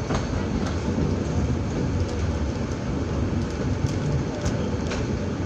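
Jamalpur Express passenger train running along the track: a steady low rumble with scattered sharp clicks and knocks from the wheels and carriages.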